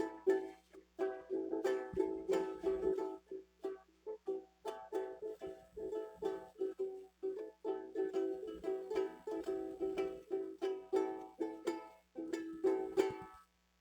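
An acoustic stringed instrument strummed rhythmically in repeated chord strokes, with no singing. The strumming stops shortly before the end.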